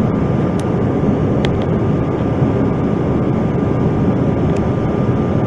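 Steady roar of a CRJ-900's rear-mounted turbofan engines and airflow heard inside the passenger cabin, with a thin steady whine running through it and a few faint ticks.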